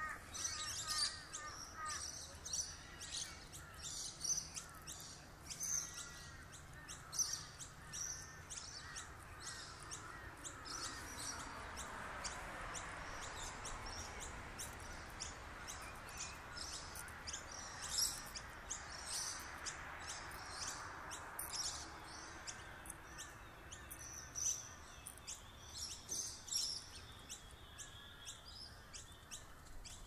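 Many birds chirping and calling, with short high chirps coming thick and fast throughout. A broad rushing sound swells up and fades away again in the middle.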